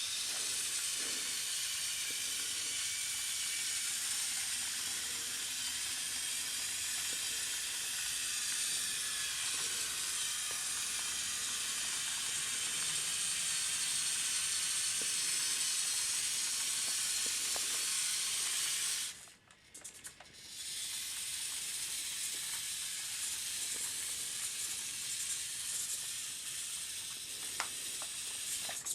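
Siku Control remote-controlled model truck running with a steady, high hiss-like whir. It stops for about a second two-thirds of the way through, then runs again.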